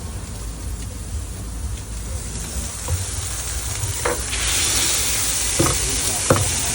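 Food sizzling on a food-truck griddle, a steady frying hiss that swells and gets louder about four seconds in, with a few sharp knocks.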